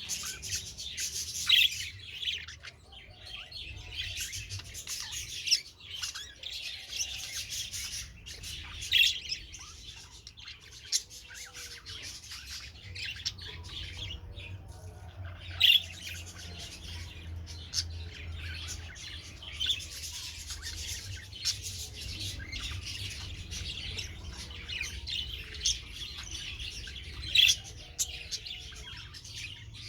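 Young budgerigars, about two months old, chattering and chirping continuously, with a sharp louder squawk every few seconds.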